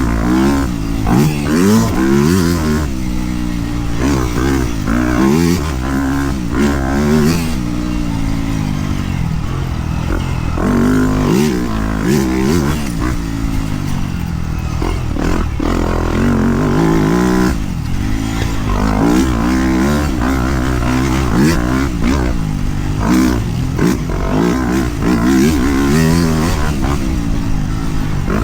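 Dirt bike engine revving up and down as it is ridden on a trail, its pitch rising and falling every second or two.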